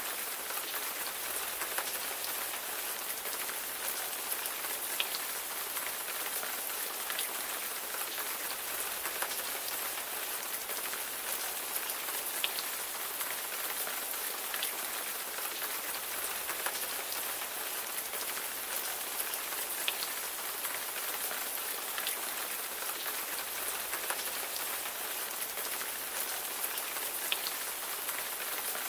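Steady rain falling, a dense even hiss with many individual drops ticking sharply on a hard surface.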